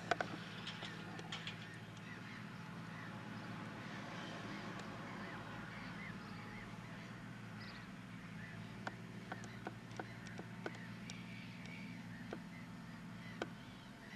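A stationary car's engine idling, heard from inside the car as a steady low hum, with faint short squeaks and, in the second half, a few sharp clicks.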